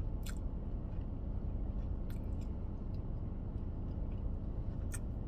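A person chewing a mouthful of chewy brisket sandwich with closed mouth, with a few short wet mouth clicks about a third of a second in, around two seconds and near the end, over a steady low rumble in a car cabin.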